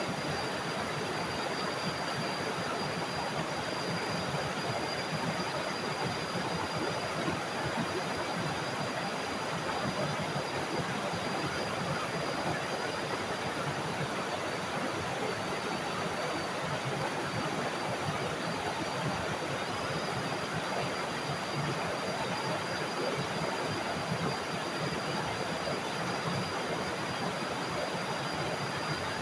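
Small waterfall in a forest, water falling and rushing steadily without a break. A thin, steady high-pitched tone runs over the rush.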